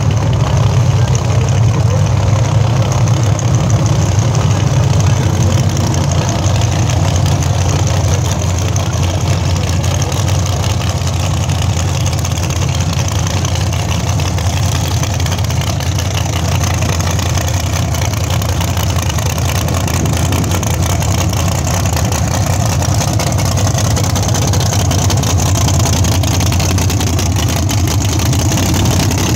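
Supercharged drag car's engine running at a loud, steady idle.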